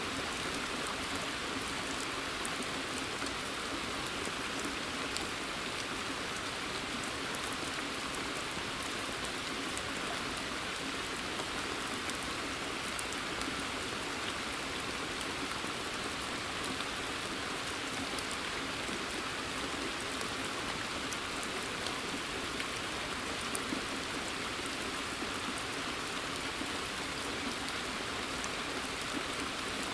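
Steady rain falling in a forest, an even hiss with scattered sharper drop impacts.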